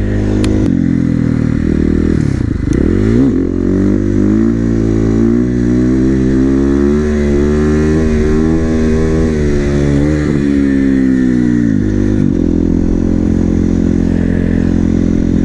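A 450 supermoto's single-cylinder four-stroke engine being revved hard in one gear without shifting, as when pulling wheelies. The pitch climbs, dips briefly, climbs again and holds high with a slight waver for several seconds, then falls back to a steady lower pitch near the end.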